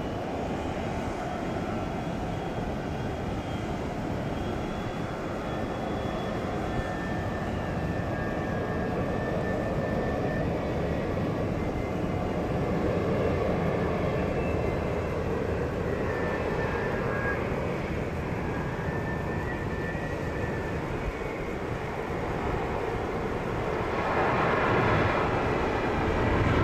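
Jet airliner engines running: a steady rumble with a faint high whine that drifts in pitch, growing louder over time and stepping up again near the end.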